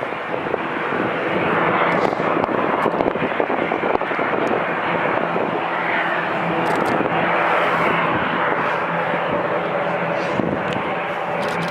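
Jet airliner's engines running at takeoff power: a loud, steady rush with a faint low hum beneath it.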